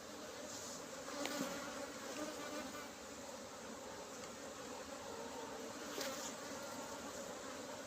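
Honeybees buzzing in a steady hum around an open brood box during a hive inspection, with two faint clicks about a second in and about six seconds in.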